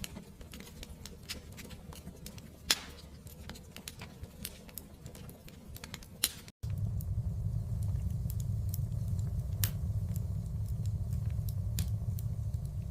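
Fire crackling and popping over a low steady rumble of flames, with one sharp pop a little under 3 seconds in. About halfway through the sound drops out for an instant and comes back with the low rumble noticeably louder, the crackles carrying on.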